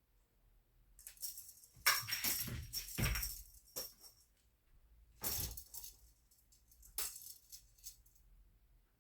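A cat's wand teaser toy jingling and rustling as it is swung and played with, in a long burst followed by two shorter ones.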